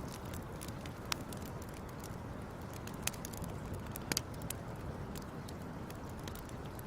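Wood fire crackling: a steady low rumble with scattered sharp pops, the strongest about one, three and four seconds in.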